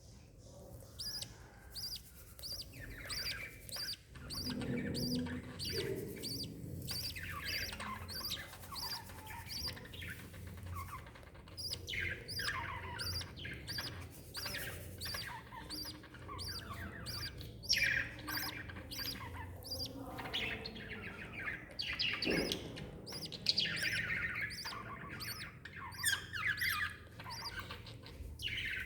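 Lovebirds calling: a steady run of short, high peeps, about two or three a second, with many quick chattering calls that slide down in pitch laid over it.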